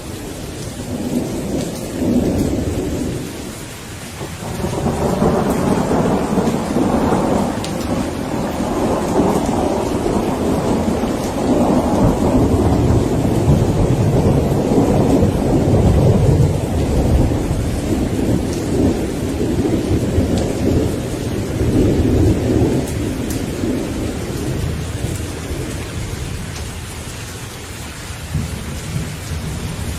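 Steady rain with rolling thunder: a first rumble about a second in, then a longer roll building from about five seconds in, strongest around the middle and dying away near the end.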